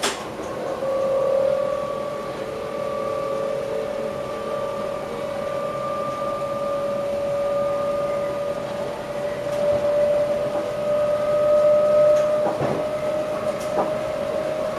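Electric passenger train heard from the driver's cab: a steady whine from the drive that rises slowly in pitch, over running noise. There is a sharp click at the start and a few knocks near the end.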